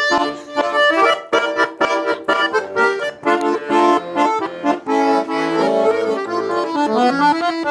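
Accordion playing a lively instrumental interlude of a Russian folk-style song: a quick run of short melody notes over steady chords, between sung verses.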